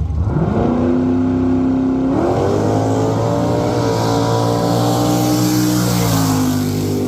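Drag racing car accelerating hard down the strip under full throttle, its engine pitch climbing at the launch and again about two seconds in, then dropping near the end as it goes past.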